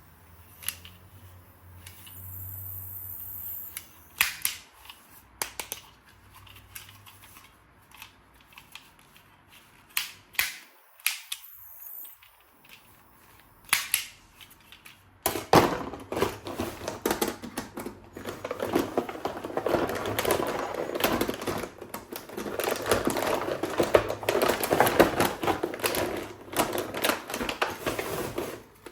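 Plastic toy gun being handled: scattered sharp clicks and snaps, then from about halfway a dense, continuous crackling clatter.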